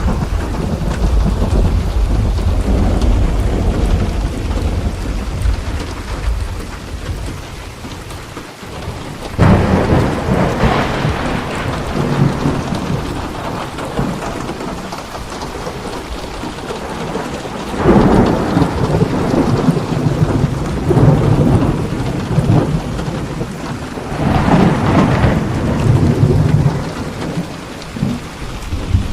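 Steady rain falling with thunder: a low rumble dies away over the first several seconds, then thunder cracks out three times, about nine, eighteen and twenty-four seconds in, each rumbling on for several seconds.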